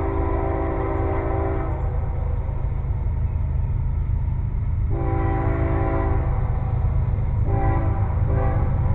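Approaching train's locomotive air horn blowing a chord in long-long-short-long blasts, the grade-crossing signal, over the low rumble of the train. The last long blast begins near the end.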